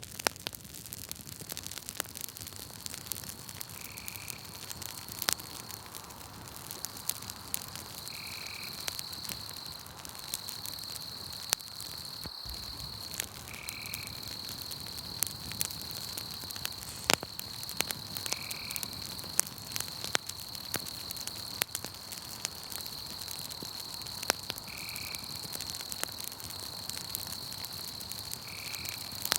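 Campfire crackling with frequent sharp pops, over a steady high trill of night insects that drops out briefly a few times. A short call repeats six times, about every four to five seconds.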